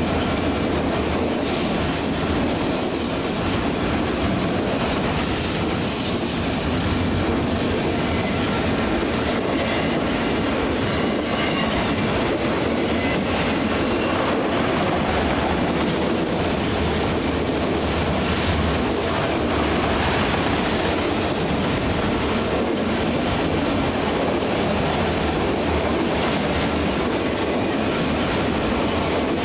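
Freight train of autorack cars rolling past at a steady pace: continuous rumble and clatter of steel wheels on the rails, with a few brief faint high wheel squeals.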